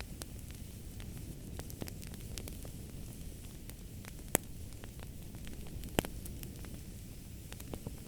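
Wood fire burning with a low steady rumble and a constant scatter of small crackles, with two sharp pops about four and six seconds in.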